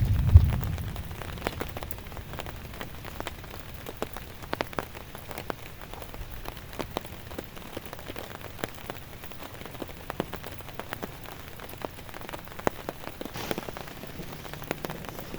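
Rain falling, with many individual drops ticking sharply on a close surface. There is a low thump right at the start.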